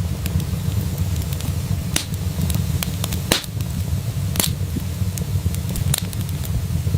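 Wood fire crackling in a fireplace: sharp, irregular pops and snaps over a steady low rumble of the flames, with the loudest snaps about three and four and a half seconds in.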